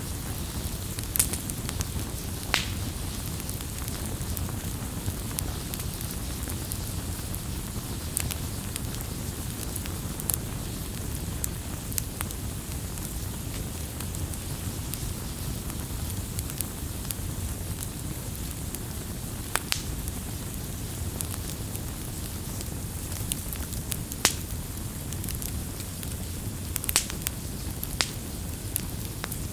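Wood fire burning: a steady low rush with sharp crackles and pops scattered every few seconds.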